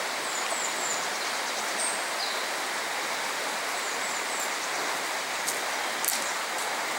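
Steady rush of a mountain stream, an even hiss of running water.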